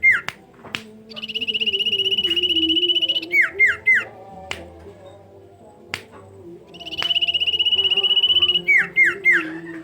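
Recorded song of a sirpu songbird played as a masteran: a rapid buzzy trill lasting about two seconds, then three quick falling whistled notes, with the phrase given twice. A low wavering hum runs underneath, with a few sharp clicks.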